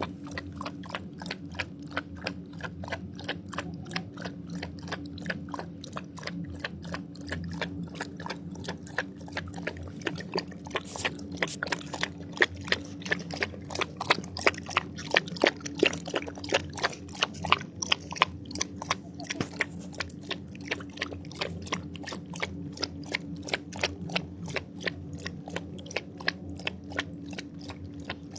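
An animal eating, crunching its food in steady bites about three times a second, louder in the middle stretch, over a steady low hum.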